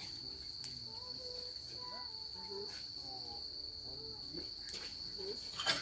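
Crickets chirring steadily in one continuous high-pitched tone, with a few sharp clicks, the loudest near the end.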